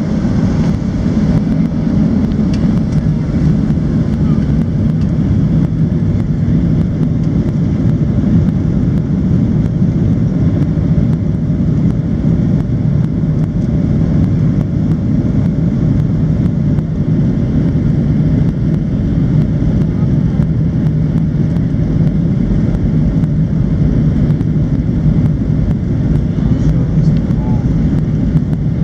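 Steady, loud engine and airflow noise of a Boeing 737-700 with its CFM56-7B turbofans, heard from inside the passenger cabin, with no rise or fall in level.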